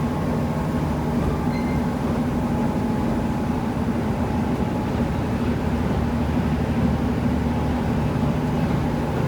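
KiHa 75 diesel railcar under way, heard from inside the car: a steady drone of the diesel engine and the running gear on the rails, with a low hum that holds its pitch throughout.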